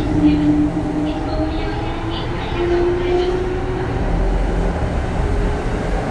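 Under-floor running sound of a Kintetsu 3200 series motor car: the early Mitsubishi GTO-thyristor VVVF inverter and traction motors whining with a steady tone that rises slightly in pitch over the first few seconds, over a continuous rail rumble that grows heavier near the end.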